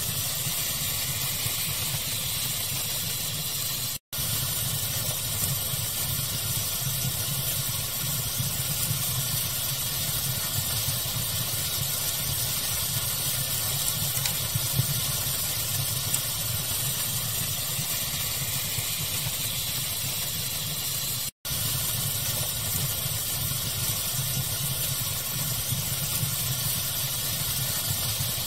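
Steady pink-noise hiss blended with a crackling fire, small pops and snaps scattered through it. The sound cuts out for an instant twice, about four seconds in and again near the end.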